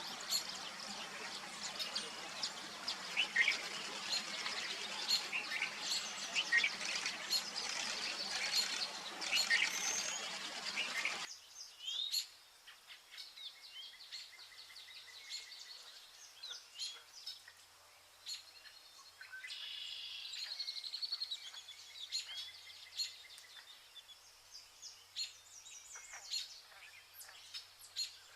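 Vernal hanging parrots chirping, many short high calls in quick succession. A steady background hiss underlies the first eleven seconds or so and cuts off suddenly; the chirping goes on after it with some longer trilled calls.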